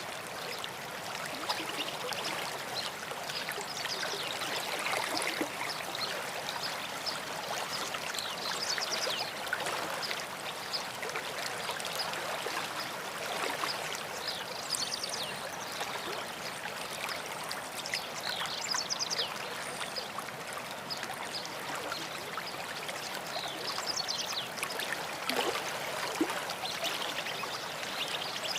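A stream running steadily over rocks, with songbirds calling now and then above the water in short high chirps.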